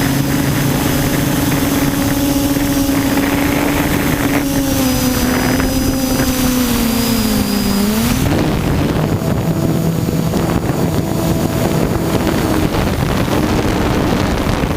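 Quadcopter's electric motors and propellers whirring steadily over a rushing noise. The pitch sags for a few seconds, drops lowest about eight seconds in, then jumps back up as the throttle changes.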